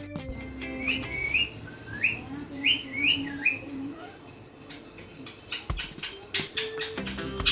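Pet parrot chirping: a run of about six short, hooked chirps, then a few harsher, noisier sounds near the end.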